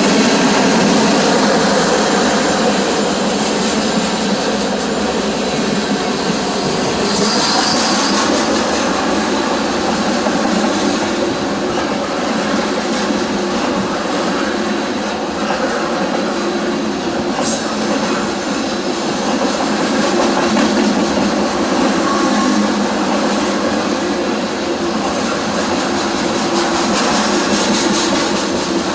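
CSX freight train rolling past at close range: a steady loud rumble and rattle of steel wheels on rail that keeps up without a break.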